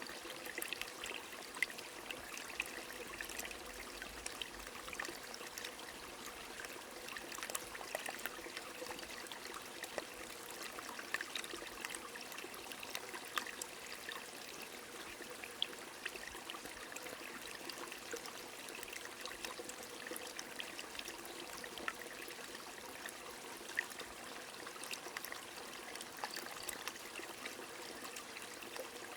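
A small stream trickling and flowing steadily, with rain falling and scattered sharp drop ticks.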